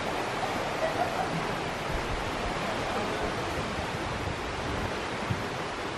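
The Martha Brae River flowing: a steady, even wash of moving water.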